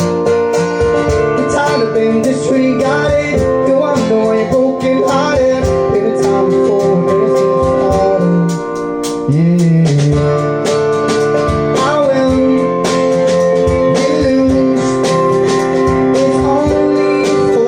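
Live acoustic band performance: strummed guitar and sustained keyboard chords under a sung vocal line, with a brief drop in level about halfway through.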